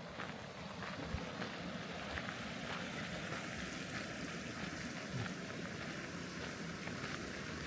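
A steady rushing outdoor noise with faint footsteps of a person walking in the first few seconds.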